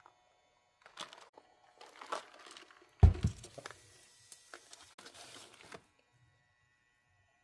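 Fast-food packaging crinkling and rustling in short bursts as it is handled, with one solid thump about three seconds in.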